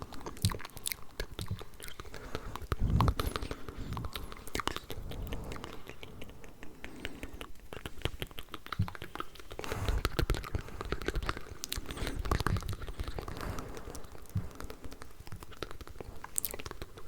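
Layered ASMR mouth sounds close to the microphone: a dense stream of overlapping wet clicks and smacks, with a few heavier, louder ones about three and ten seconds in.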